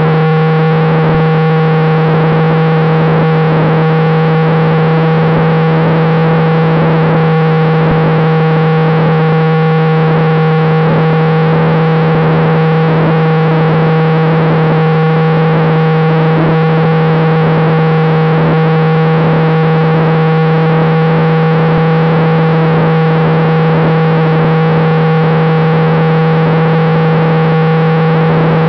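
A model plane's electric motor and propeller droning at a steady throttle, heard as a loud, distorted buzz with an unchanging pitch.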